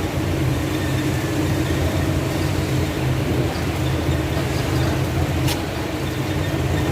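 Car engine with a conventional distributor ignition running at a steady idle, with one sharp click about five and a half seconds in.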